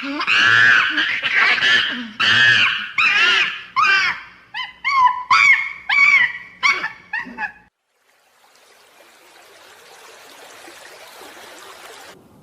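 An animal giving a run of high-pitched whining cries, each about half a second long, that become shorter, quicker yelps about four seconds in and stop near eight seconds. A faint hiss follows.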